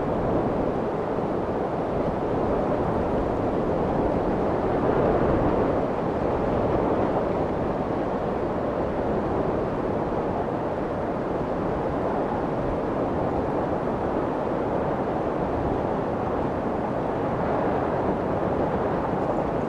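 Steady white noise for soothing a crying baby, a rushing hiss weighted toward the low and middle range, meant to imitate the sound of the womb. It swells and eases slightly in level.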